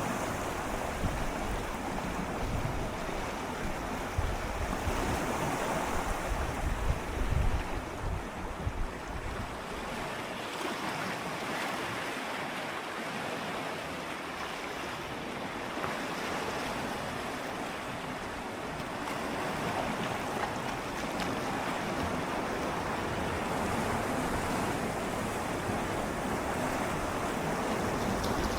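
Gentle sea waves swirling and lapping against shoreline rocks, a steady wash that swells and eases. Wind rumbles on the microphone for the first several seconds, then dies away.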